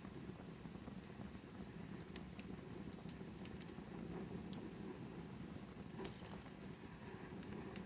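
Wood fire crackling in a fireplace: a steady low rush with scattered sharp pops and snaps, a small cluster of them about six seconds in.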